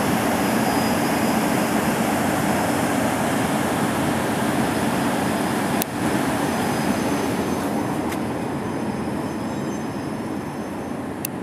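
Electric-hauled passenger train moving along a station platform: a steady loud rumble and rush of the locomotive and coaches on the rails, easing slowly toward the end, with a brief break about six seconds in and a few sharp clicks.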